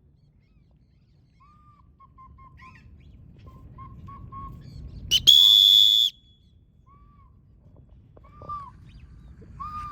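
A whistle blown once, a loud steady high tone lasting about a second, about halfway through. Faint short chirping calls come and go around it, over a low rush of wind on the microphone.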